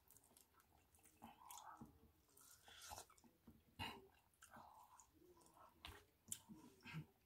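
Faint close-up chewing and biting of spiced boiled corn on the cob, with scattered short clicks and mouth noises.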